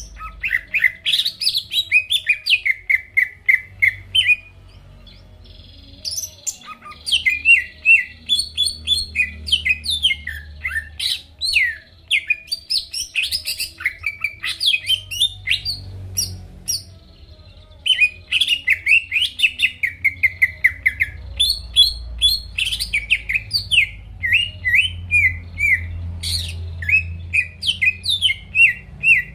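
Cucak ijo (green leafbird) singing energetically: rapid phrases of sharp, sweeping whistled and chattering notes, broken by two short pauses, about four seconds in and a little after the middle.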